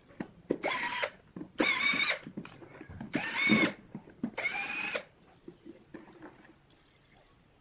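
Power drill run in four short bursts, each a whine of about half a second that rises and falls in pitch, spaced roughly a second apart.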